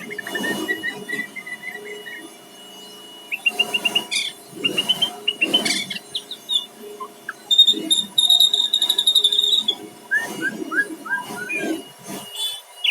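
White-rumped shama (murai batu) singing a varied phrase: a run of quick chirps, then rising slurred notes, a sustained high trill near the middle, and a string of short falling whistles towards the end. Short bursts of background noise come and go under the song.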